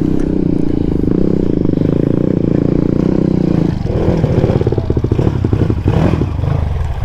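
Motorcycle engine running steadily under throttle, then, a little under four seconds in, the revs drop and it goes to an uneven, pulsing putter as the throttle closes.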